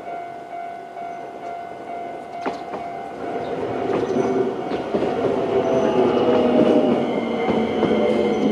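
Matsumoto Electric Railway 20100 series electric train passing over a level crossing, getting louder from about three seconds in, with wheels clacking over the rail joints. The crossing alarm rings steadily throughout.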